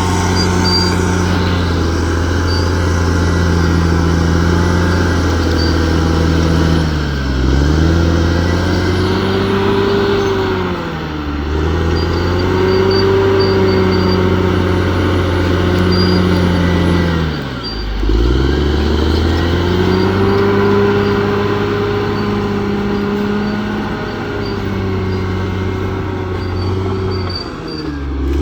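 Bulldozer's diesel engine running steadily at high revs, its pitch sagging briefly and recovering four times.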